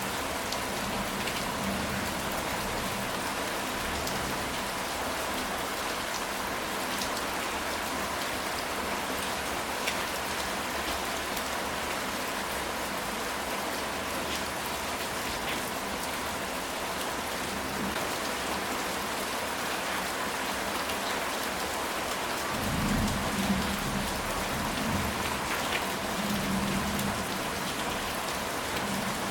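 Steady rain pattering on a ceramic tile roof. About three-quarters of the way in, a low rumble of thunder swells for a few seconds and fades.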